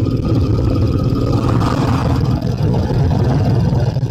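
Motorcycle running at a steady road speed, its engine hum mixed with heavy wind rumble on the microphone.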